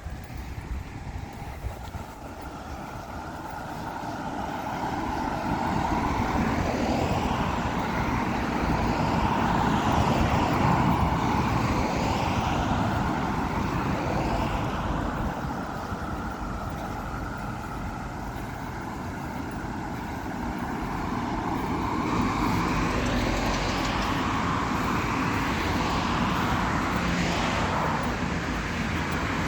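Road traffic: cars driving past one after another, the noise swelling as each one comes by and fading away, loudest a few seconds in and again near the end.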